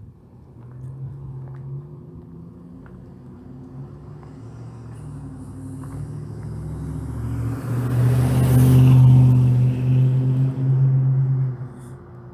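A car driving past close by: engine hum and tyre hiss build to their loudest about eight to nine seconds in, then drop away quickly near the end.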